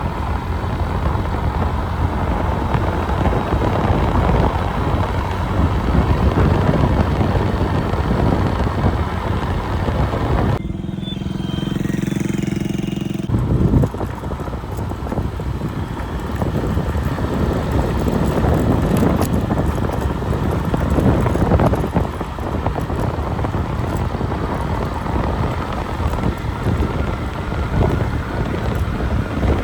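Loud rumbling wind noise buffeting the microphone, mixed with the running noise of a vehicle. About ten seconds in it cuts briefly to a steadier low engine hum, then the wind noise returns.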